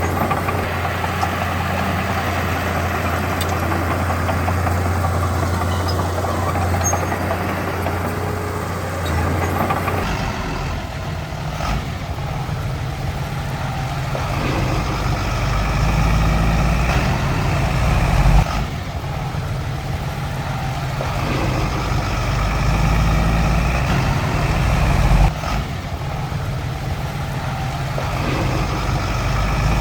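Heavy earthmoving machinery's diesel engine running with a steady low note. About ten seconds in the sound shifts lower and heavier, then rises and falls in repeated cycles, each rise ending in a sudden drop.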